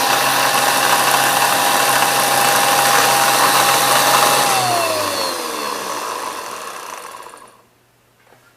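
Old Walita blender's electric motor running at speed with a steady high whine. About four and a half seconds in it is switched off and spins down, the whine falling in pitch and fading until it stops, followed by a small click near the end.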